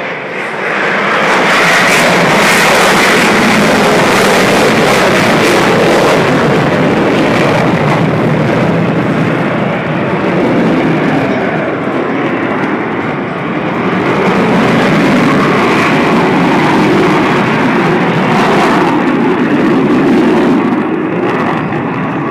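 Blue Angels F/A-18 Hornet jets flying past, a loud continuous jet engine rush that swells about a second in and holds, easing a little near the end.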